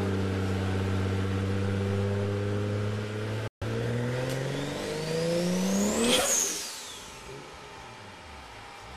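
Heavily modified Mk4 Toyota Supra straight-six running on a chassis dyno. It holds steady at first, then the revs climb sharply in a pull with a high whistle rising alongside. Near the top it lets off, and the pitch and level fall away.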